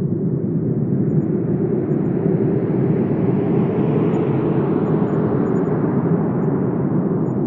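Wind blowing in a steady low rush, building to a stronger, hissier gust in the middle and easing off again near the end.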